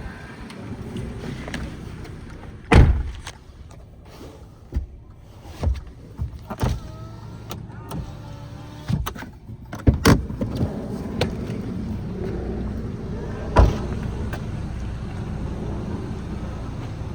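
Clicks and knocks from a car's interior controls and fittings being worked, several single sharp ones and a quick pair about ten seconds in, over a steady low hum that grows stronger from about ten seconds in.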